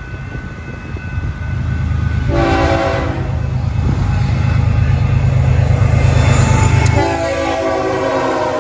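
BNSF freight train's diesel locomotives approaching fast, a deep engine rumble growing louder as they close in. The lead locomotive's multi-note horn sounds a short blast about two seconds in, then a long blast starting near the end as the locomotives pass close by.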